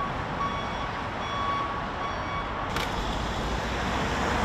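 Repeated electronic beeps of one steady pitch over street noise, stopping at an edit about two and a half seconds in, followed by steady low traffic rumble.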